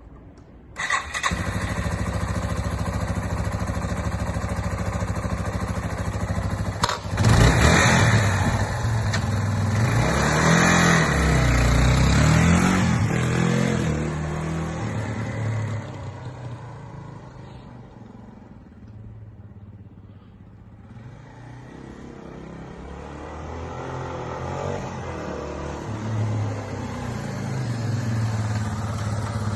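Yamaha Serow 225's single-cylinder four-stroke engine starting about a second in and running at idle, then revved up and down several times from about seven seconds in before settling back to idle. It is quieter for a few seconds past the middle, then steady again.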